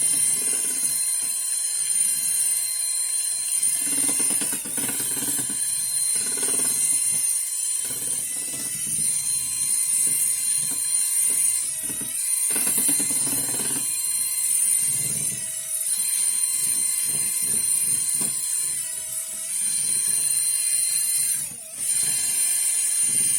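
Car spray-painting equipment running: a steady high hiss over a motor hum that briefly sags in pitch now and then, with irregular knocks and handling noises.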